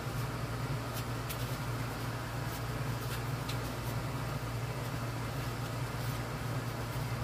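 A steady low mechanical hum, like a fan or air conditioner, with a few faint scrapes and ticks as filler is spread into the cracked veneer of a wooden radio cabinet.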